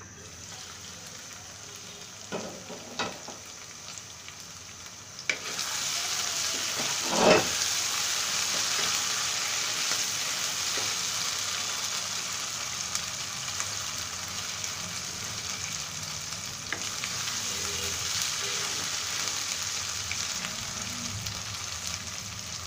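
Beef liver and onion-spice masala frying in oil in a karahi: a soft start with a few light knocks, then from about five seconds in a steady sizzle, with one sharp knock about seven seconds in. The sizzle is the liver being fried down in its masala until it browns.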